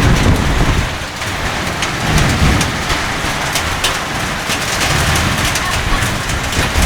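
Heavy rain pouring in a thunderstorm, a dense steady hiss with crackling drops and uneven low rumbles underneath.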